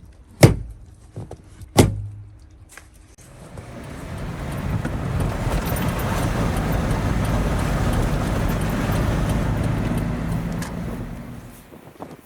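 Two sharp knocks, then a vehicle's engine and tyres swell up over a couple of seconds, hold steady, and fade away near the end as it passes by.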